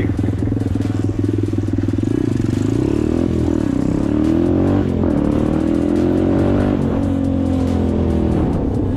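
Motorcycle engine accelerating hard, its pitch climbing and then dropping at gear shifts about five and seven seconds in, before it settles to a steadier pitch.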